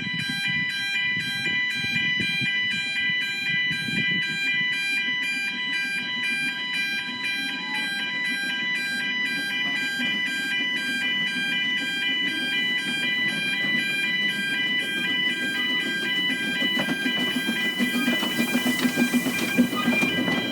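Level crossing warning alarm sounding continuously, a rapidly pulsing set of high tones. Toward the end the rumble and hiss of the approaching train builds beneath it.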